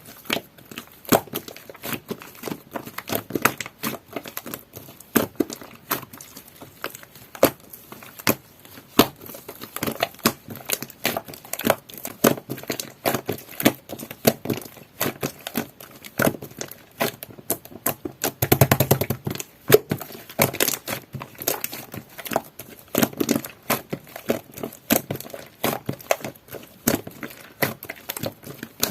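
Coral slime with shaving foam mixed in, squeezed and kneaded by hand, giving a stream of sticky clicks and small pops. About two-thirds of the way through comes a denser run of crackling.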